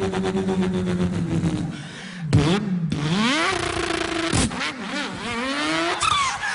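A man's voice imitating a car engine: a held engine note, then revs climbing in rising glides that break off and start again twice, like a car accelerating up through the gears.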